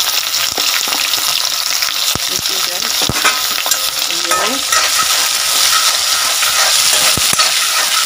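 Sliced onions and whole spices sizzling steadily in hot oil: the tempering (baghaar) for a curry. There are a few sharp clicks, and the sizzle gets louder about halfway through.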